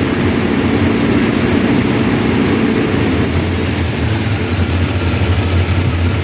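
ZMZ-405/409 four-cylinder petrol engine idling unevenly: it is misfiring and running on three cylinders, and a replacement ignition coil has not cured it.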